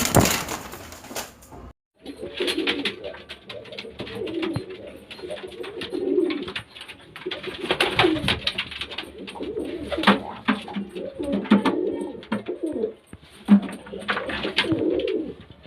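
Domestic pigeons cooing over and over, with many sharp clicks and rustles among them. For the first second or two a loud rushing noise covers everything, then it cuts off.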